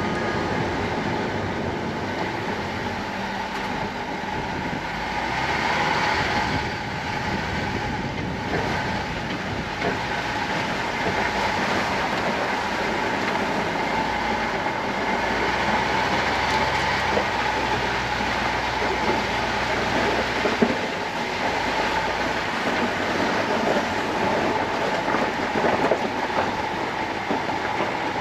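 A vehicle driving along at a steady speed: continuous road rumble with rattling and clattering.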